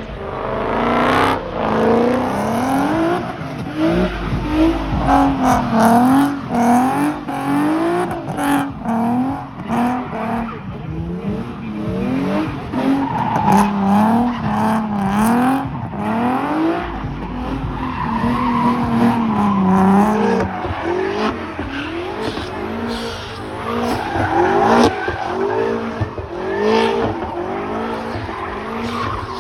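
Car engine revving up and down again and again while its tyres squeal and skid as the car slides.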